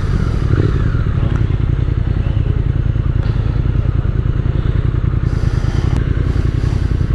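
Triumph Speed Twin 1200's 1200 cc parallel-twin engine running with a steady, rapid pulsing beat.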